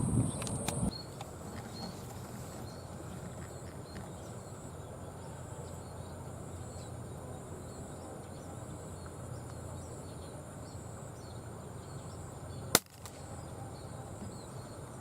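A single sharp air rifle shot near the end, over steady outdoor background noise with faint, repeated high bird chirps.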